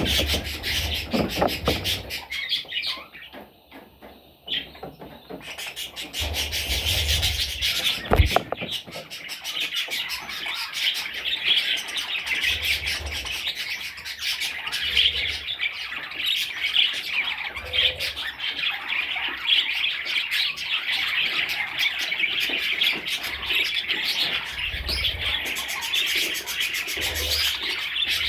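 Budgerigars chirping and twittering in a dense, continuous chatter, with a brief lull a few seconds in and a single sharp knock about eight seconds in.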